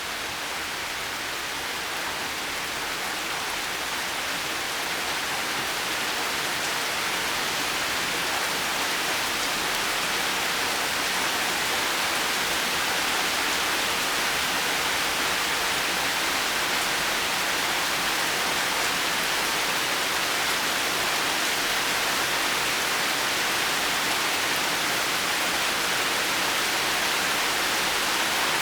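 Steady rain falling, an even unbroken hiss that grows slightly louder over the first several seconds and then holds.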